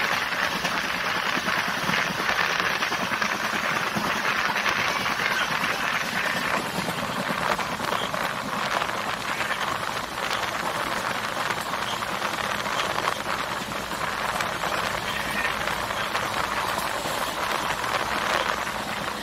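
Steady running noise heard from on board a moving passenger train: a continuous rushing of wheels on the rails and air, with a faint steady hum underneath.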